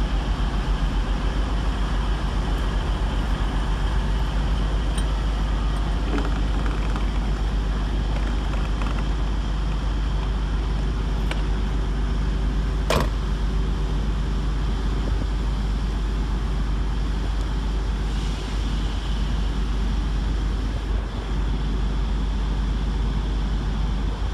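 Diesel train engines running steadily, a low drone with a constant hum, as a Class 185 diesel multiple unit moves slowly out of the station. One sharp click about 13 seconds in.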